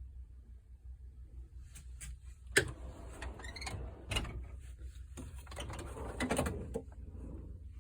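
Metal hand tools being handled in a toolbox, with a run of clicks and rattles and one sharp knock about two and a half seconds in.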